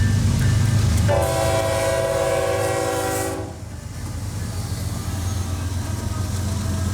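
A locomotive's air horn sounds one long chord, about two and a half seconds, starting about a second in and cutting off sharply, over the steady low rumble of the train, which carries on after the horn stops.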